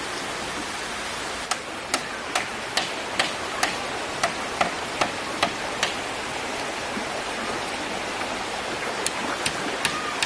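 Rushing stream water with a run of sharp, evenly spaced knocks, about two or three a second. The knocks start about one and a half seconds in, pause around the middle, and resume near the end.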